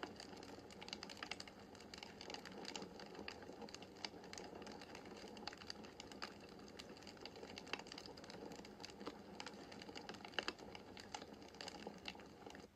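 Wood fire in a fireplace crackling, with irregular snaps and a louder pop over a soft steady rush of flame. The crackling cuts off suddenly at the very end.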